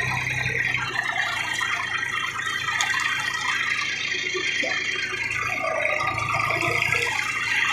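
Tractor engine running steadily under load while pulling a cultivator through the field, with a constant rattling mixed in.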